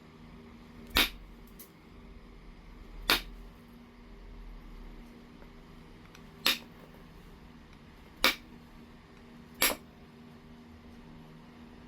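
Flintknapping strikes on lightly heat-treated Oregon jasper: five sharp clicks, irregularly spaced a second or more apart, each a knapping tool hitting the stone's edge to detach a flake.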